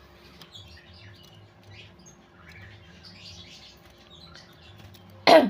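Oriental magpie-robin chicks chirping faintly and repeatedly. Near the end comes one loud, falling "tuung", the feeding call a person uses to make the chicks gape for food.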